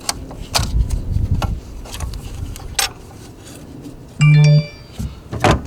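Metal parts clinking and knocking as an alternator mounting bracket is set back into place on the engine, with a short, loud buzzing whirr a little over four seconds in.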